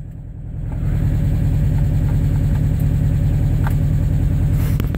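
A motor vehicle engine running with a low, steady drone that swells during the first second.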